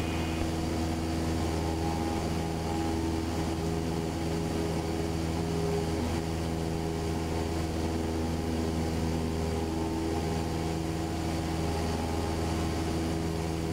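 Piper Cherokee's piston engine and propeller running steadily at climb power, a constant drone.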